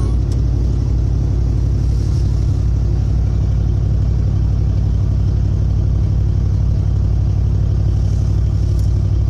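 Truck engine idling steadily with an even, low rumble, soon after a cold start following a couple of days of sitting.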